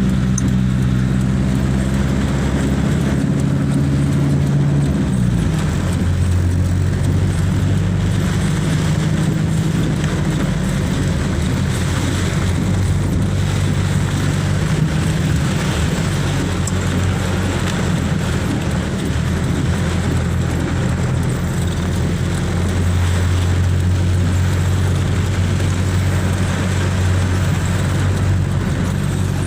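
Car engine running with a steady low hum that drops in pitch about five seconds in, over a continuous rushing noise.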